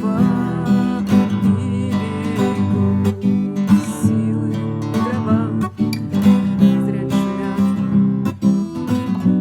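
Acoustic guitar strumming chords in a steady rhythm, playing a song.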